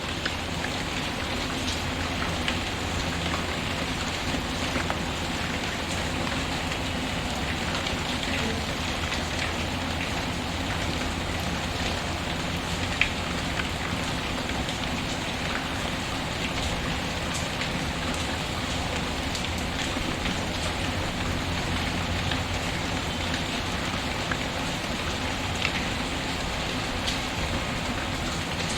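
Steady rain falling, with a few sharp crackling pops from a wood fire scattered through it; the loudest pop comes about halfway through.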